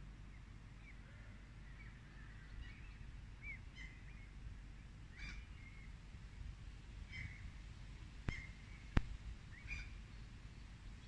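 Small birds chirping in short, scattered calls over a low outdoor rumble. About eight seconds in come two sharp clicks less than a second apart, the second the loudest sound.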